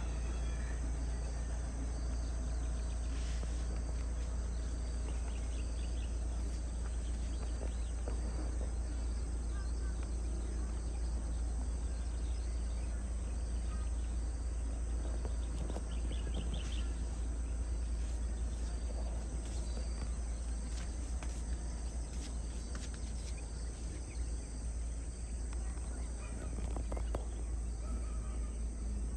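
Rural outdoor ambience: a steady low rumble, with an insect chirping in an even beat about once a second and occasional short bird calls.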